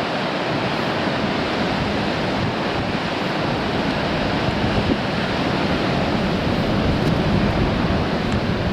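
Sea waves surging and breaking against shore rocks, a steady heavy wash with a low rumble. Strong wind buffets the microphone throughout.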